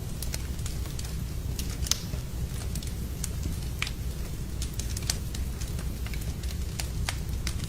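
Wood fire in a fireplace crackling, with irregular sharp pops over a steady low rumble of the flames; one louder pop about two seconds in.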